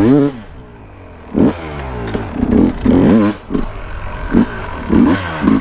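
Dirt bike engine revving: a rev that falls back to lower running about half a second in, then a series of short rising revs blipped several times.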